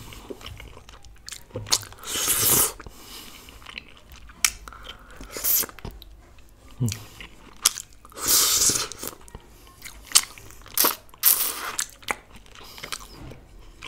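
Close-up eating sounds: a man biting into and chewing a piece of meat in gravy, with wet clicks and smacks and a few louder crunchy bites at irregular moments, about every two to three seconds.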